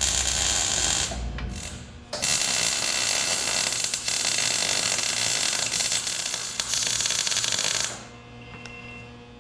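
Shop power tool running in spells, a steady hissing noise: a short burst at the start, then a longer run from about two seconds in that stops near the end.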